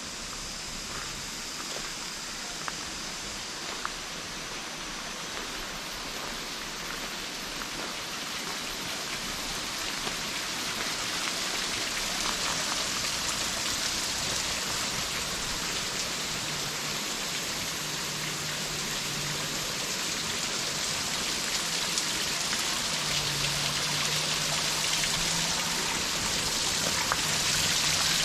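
Steady rush of water, getting gradually louder, with a faint low hum in the second half.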